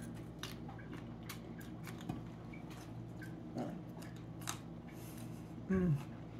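A person chewing asparagus with the mouth close to the microphone: a scatter of faint, crisp crunching clicks, then a short murmured "mm" with a falling pitch near the end.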